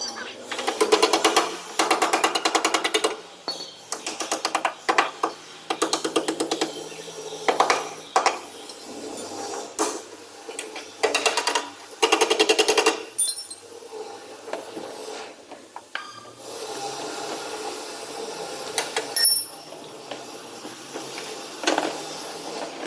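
Sheet-metal truck cab panel being hammered, in runs of rapid, ringing hammer blows a second or two long, separated by short pauses.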